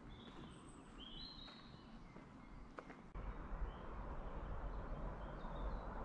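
Small birds chirping in short, high calls, with a single click near the middle. About halfway through, a steady rushing noise with a deep rumble comes in suddenly and stays as the loudest sound, with a few faint chirps over it.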